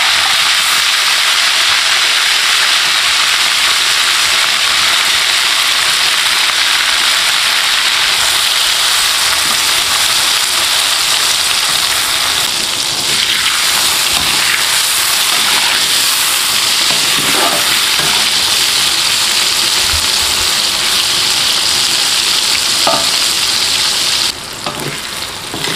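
Peeled shrimp frying in hot cooking oil: a loud, steady sizzle with a few light utensil scrapes in the second half. The sizzle drops sharply near the end.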